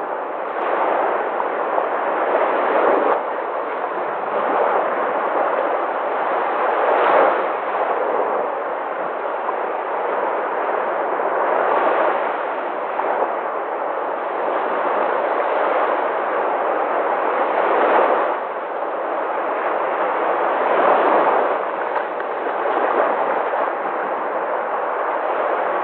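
Sea waves breaking, a steady rushing wash that swells to a louder surge every few seconds.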